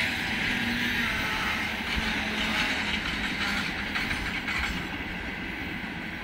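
Freight train of open gondola wagons rolling past, a steady rumble and hiss of wheels on rail with occasional knocks as the wheels cross rail joints. It eases off slightly near the end.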